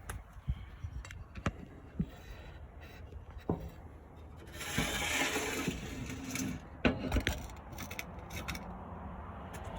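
Tools working the screws and sheet-metal panels of a pellet smoker: scattered sharp clicks and knocks, with a rasping scrape lasting about two seconds near the middle.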